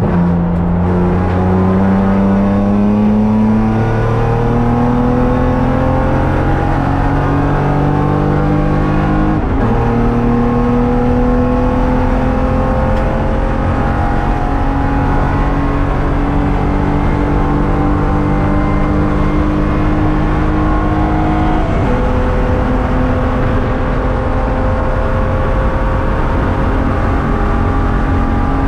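BMW race car's engine heard from inside the cabin, accelerating hard: the revs climb steadily, drop with an upshift about ten seconds in and again about twenty-two seconds in, then climb again.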